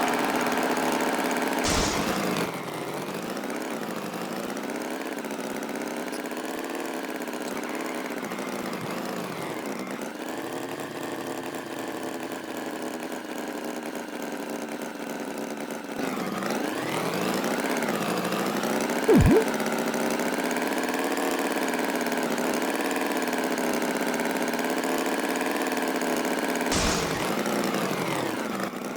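Tractor engine running steadily, its pitch rising and falling as it speeds up and slows. There is a sharp knock about two seconds in and another near the end, and a brief loud swooping sound in the middle.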